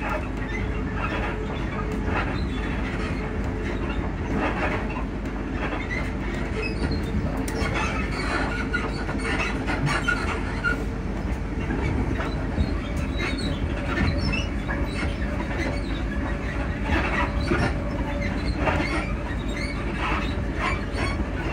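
Interior running noise of a Class 334 Juniper electric multiple unit at speed: a steady low rumble with a steady hum, and frequent short knocks and rattles from the suspension and carriage fittings.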